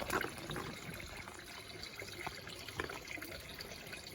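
Water running and trickling steadily from a garden pond's waterfall, with a few small splashes at the surface.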